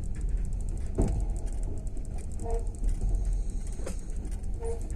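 Passenger railway carriage running at speed: a steady low rumble of wheels on rails, with short creaks and squeaks from the carriage and two sharp knocks, about one second and about four seconds in.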